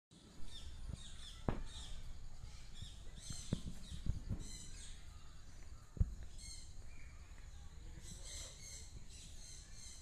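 Birds chirping with short, high chirps again and again, thicker near the end. A few sharp knocks stand out, the loudest about six seconds in.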